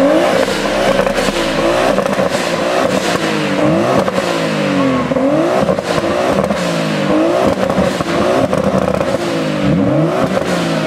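Two tuned Nissans, a Skyline and a 240, revving hard over and over, the engine pitch sweeping up and dropping back again and again, their revs overlapping and crossing. The engines are being revved to shoot flames from their exhausts.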